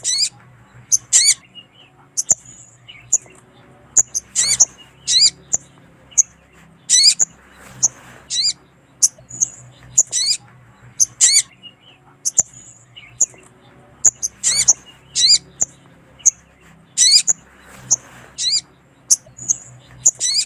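Sogon (little spiderhunter) calling: loud, sharp high chirps repeated about one or two a second, some sliding down in pitch. This is a lure recording of a female sogon calling to a male. A faint steady low hum runs underneath.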